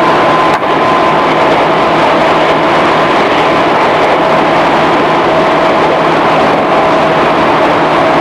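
Running sound inside a JR 211 series electric train's motor car (MoHa 210), recorded on cassette tape: steady wheel-and-rail noise at speed, with a few steady whining tones under it.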